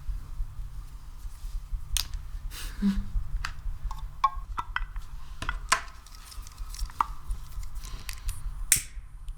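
Hands working a sticky ASMR material, giving an irregular string of sharp sticky clicks and pops over a low steady hum.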